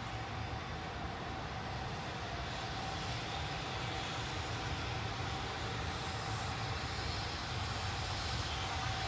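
A train running with a steady rumble and a faint steady whine, slowly getting louder.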